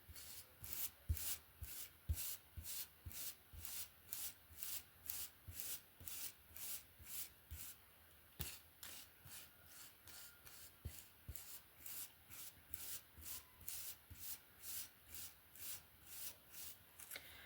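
Hairbrush strokes through hair, a steady run of quick, even strokes at about two a second, each a short hiss.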